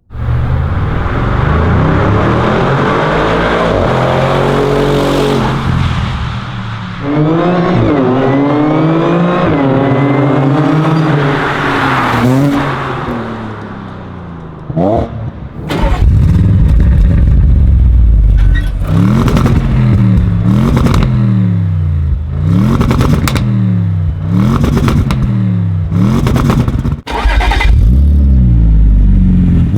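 Audi performance car engine heard onboard under hard acceleration, its pitch climbing and dropping back again and again as it runs up through the gears. From about halfway through, the rises and drops come roughly every second and a half, punctuated by sharp exhaust cracks.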